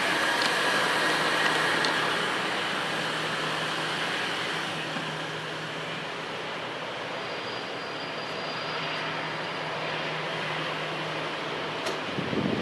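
Jet airliner engines running: a steady rush of noise with a low hum underneath and a high whine that fades after about two seconds.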